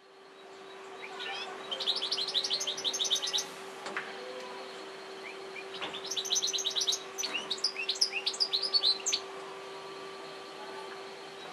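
European goldfinch singing in two bursts of quick, high twittering notes. The first comes about two seconds in and the second, longer and more varied, comes about six seconds in. A steady low hum runs underneath.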